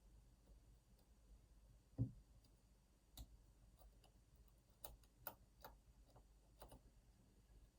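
Handling noise from a lock being picked: a soft low thump about two seconds in, then a few scattered sharp clicks.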